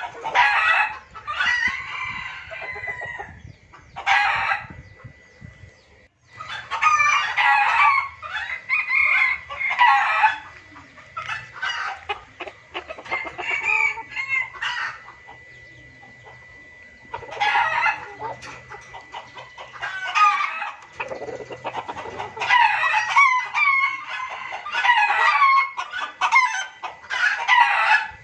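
Junglefowl crowing and clucking in a run of noisy bursts a few seconds apart. It is a rowdy lure call (suara pikat) used to draw wild junglefowl in.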